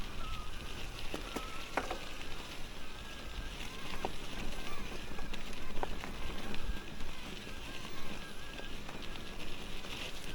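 Electric mountain bike ridden over a rough trail: tyre noise and rattle, with a few sharp knocks and wind rumbling on the microphone.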